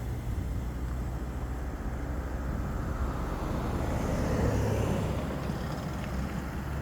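A road vehicle passing, its tyre and engine noise swelling to its loudest about four to five seconds in and then fading, over a steady low rumble.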